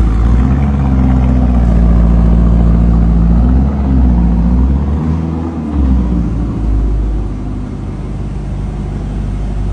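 Car engine running, its note rising and falling a little around the middle, then giving way to a rougher, more rushing sound in the last few seconds.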